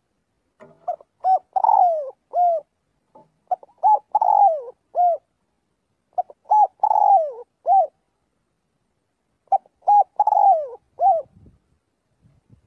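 Spotted dove cooing: four repeated phrases, each a few short coos and one longer falling coo.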